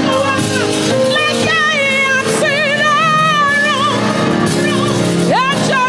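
A woman singing a gospel worship song with wavering held notes over sustained backing music.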